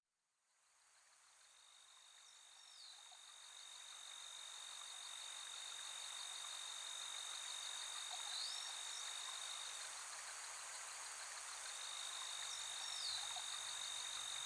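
Faint insect chorus: a steady high cricket-like trill with fast pulsing chirps over an even hiss. It fades in over the first couple of seconds and grows slowly louder.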